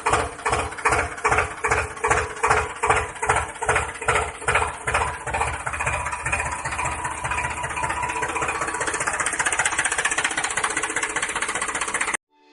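Tractor engine running in slow, even pulses about three a second, picking up speed into a steadier run about halfway through, then cutting off abruptly near the end.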